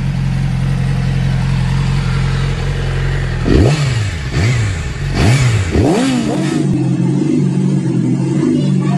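2009 Yamaha R6 inline-four sportbike engine idling steadily, then blipped four times in quick succession, each rev rising and falling, about three and a half seconds in. Near the end it settles into a steady, higher-pitched idle.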